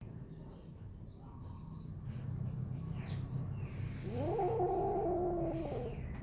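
A cat gives one long, drawn-out meow about four seconds in, rising at the start and falling away at the end, over a low steady hum.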